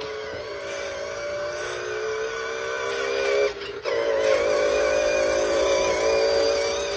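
Dog howling in long, drawn-out wavering notes, breaking off briefly for a breath about three and a half seconds in.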